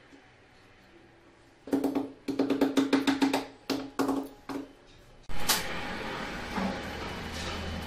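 A quick run of about ten sharp knocks with a hollow ring, then from about five seconds in a steady whirring noise with a low hum.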